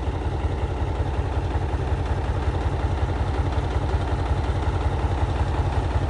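Heavy truck's engine idling, a steady low, even pulsing.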